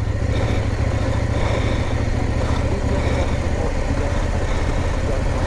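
Adventure motorcycle engine running steadily at low revs while descending a rough off-road lane, with a constant low drone and a grainy rattling noise over it.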